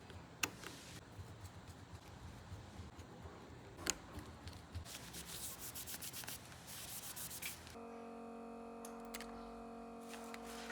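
Rubbing and scraping strokes from hand work on a phone, with two sharp clicks. About eight seconds in they give way to steady background music with held tones.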